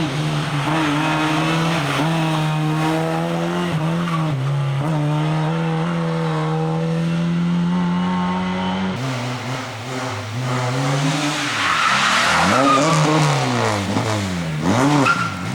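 Lada 2107 rally car's four-cylinder engine held at high revs, with short dips at gear changes. About nine seconds in, the revs start rising and falling quickly, over and over, under hard driving.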